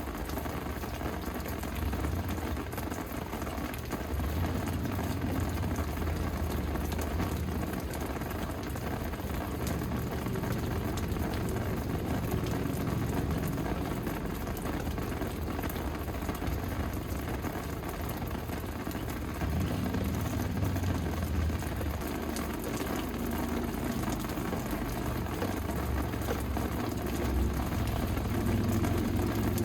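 Steady rain falling, a continuous even hiss, with a low rumble underneath that swells and eases.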